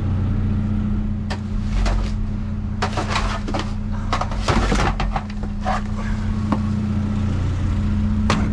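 Truck engine running steadily, with a series of knocks and rattles over it.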